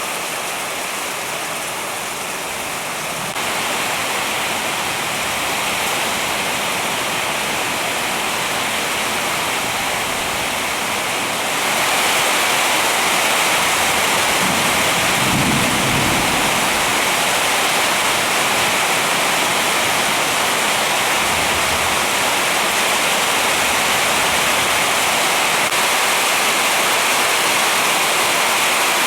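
Heavy rain pouring steadily, growing heavier about three seconds in and again about halfway through. A brief low rumble sounds under it a little past the middle.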